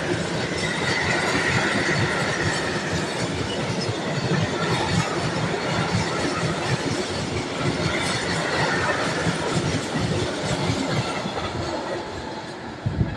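A train passing close by, its wheels clattering steadily over the rail joints, with a faint high squeal now and then. The sound eases off near the end as it draws away.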